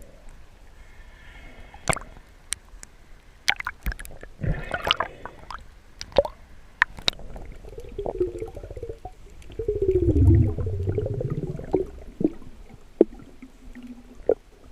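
Water gurgling and sloshing around the microphone, with scattered sharp clicks and taps. About eight seconds in comes a louder, low warbling gurgle that lasts a few seconds.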